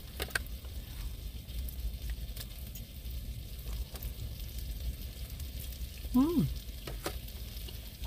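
Meat sizzling steadily as it fries in a pan, with a few light clicks of utensils and a brief hum of a voice about six seconds in.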